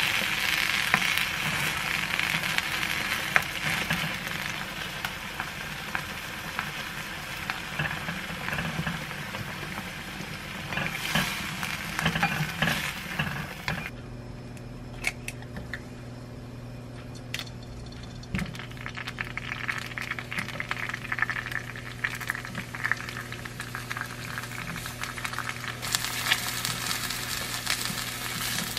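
Soft tofu and onion sizzling and simmering in a nonstick pan while stirred with a spatula. After a cut, a low steady hum with a few light clicks and taps, then oil sizzling again as king oyster mushroom slices and an egg fry, turned with chopsticks.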